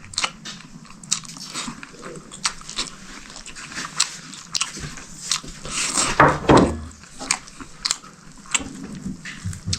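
Close-up chewing and crunching of food, a person eating a meal of rice and meat, heard as many short, irregular crisp clicks. About six seconds in there is one louder, fuller sound.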